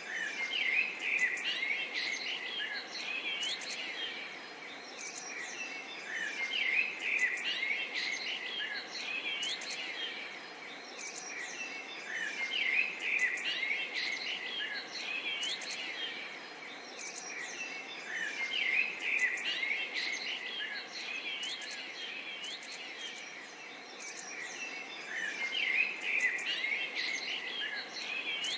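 Many small birds chirping and twittering together, the chorus swelling and easing about every six seconds, over a faint steady background hiss.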